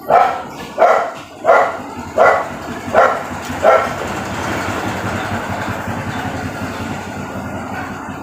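A dog barking six times in a steady rhythm, about a bark every 0.7 seconds, then stopping. A steady noise carries on after the barks.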